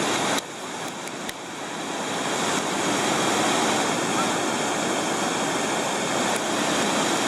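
Rushing water of a waterfall pouring down a rock slide, a steady noise that grows louder over the first few seconds.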